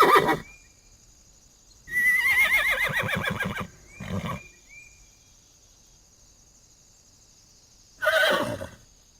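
Horse neighing: a long quavering whinny with a wavering, falling pitch about two seconds in, a short burst just after it, and another shorter whinny near the end, with quiet gaps between.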